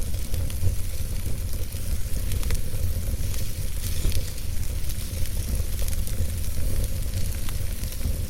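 Wood fire burning in a fireplace: a steady low rumble of flames under a hiss, with frequent small crackles and pops from the logs.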